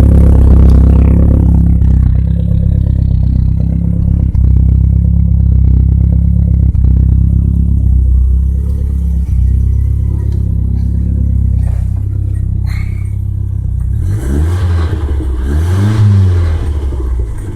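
Car exhaust through a newly fitted Magnaflow resonator and Cherry Bomb tip, running with a steady low rumble after starting out louder. Near the end it gives two quick revs.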